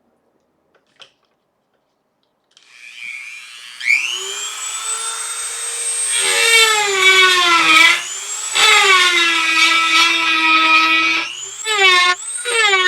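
Dremel rotary tool starting up about three seconds in and spinning up to a steady high whine, then grinding into the black epoxy casing of a DS12887A clock chip, its pitch sagging each time the bit bites into the material.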